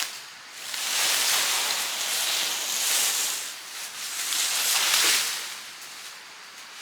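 Leaves rustling in a hiss that swells and fades in waves every second or two.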